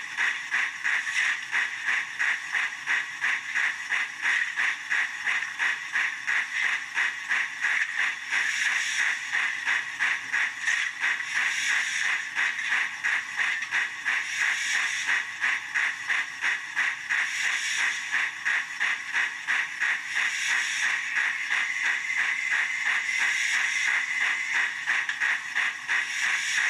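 Accurascale J68 model steam locomotive's DCC sound decoder playing its injector sound: a steady hiss over rapid, even steam chuffs of the engine running.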